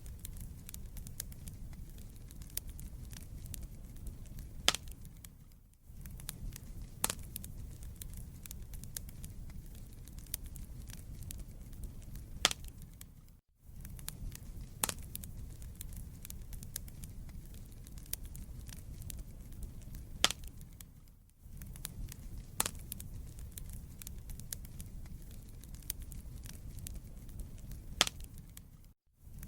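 Wood fire burning in a fireplace, with a steady low rumble and frequent sharp crackles and pops from the burning logs. The sound briefly dips out about every eight seconds.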